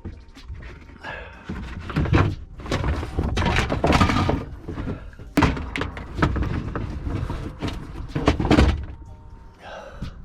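A run of irregular heavy thunks and knocks as car parts and panels are handled and set back in place during reassembly after a rear strut replacement.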